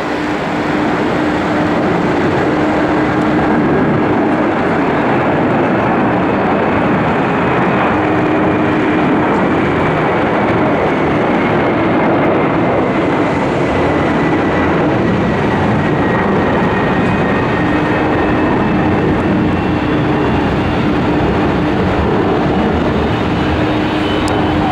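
Jet airliner engines running loud and steady, a broad rush with a low hum and a thin whine that slowly falls in pitch. The sound cuts off suddenly at the end.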